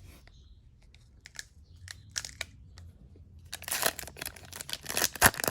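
A trading card pack's foil wrapper being torn open and crinkled by hand: a few faint crackles at first, then louder, dense crinkling and tearing over the last two seconds.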